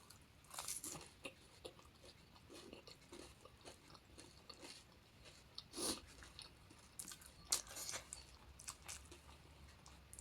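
Close-up eating sounds: crisp, hollow panipuri shells cracking as they are bitten, then crunching and chewing in the mouth, with louder crunches about six and seven and a half seconds in.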